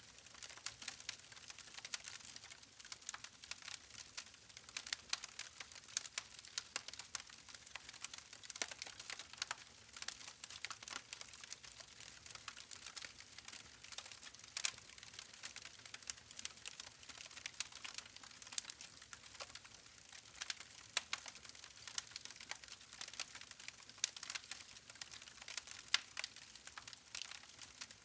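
Wood campfire crackling: a continuous run of small, irregular pops and snaps from the burning logs, with a few louder snaps here and there.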